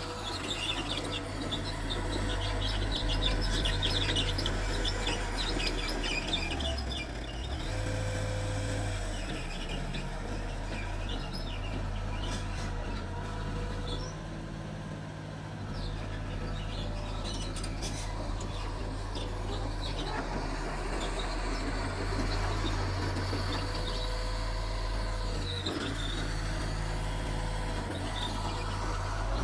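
Diesel engine of a small Mitsubishi bulldozer running steadily, its load rising and easing as it works, with high squeaks and clicks over it.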